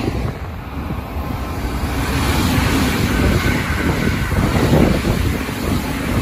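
Keisei AE-series Skyliner train passing through the station: a steady rumble of wheels on rail and rushing air, with wind buffeting the microphone.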